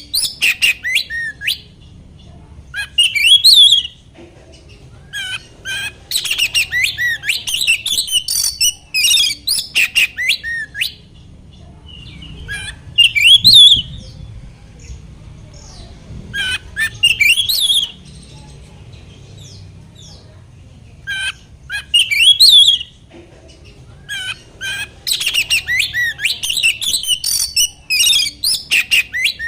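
Oriental magpie-robin (kacer) singing in bursts of rapid, high, warbling phrases, each a second or three long, with short pauses between.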